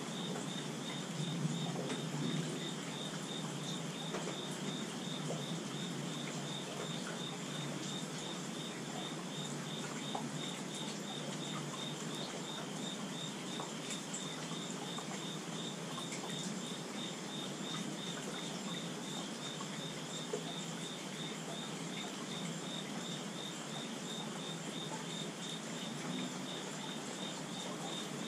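Steady rainfall, with an insect chirping in an even pulse a few times a second over it.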